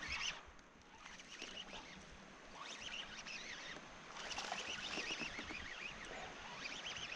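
Birds calling: flurries of short, quick high chirps that come and go every second or two.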